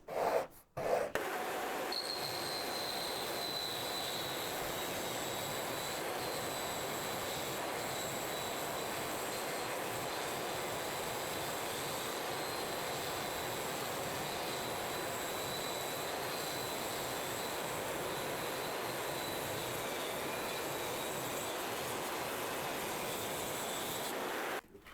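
A power tool's motor running steadily for over twenty seconds, a constant noise with a thin high whine. It starts about a second in and cuts off just before the end.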